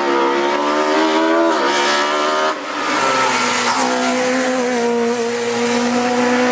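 BMW rally car's engine at high revs, pitch climbing over the first second and a half, dropping briefly around two seconds in, then held high and steady.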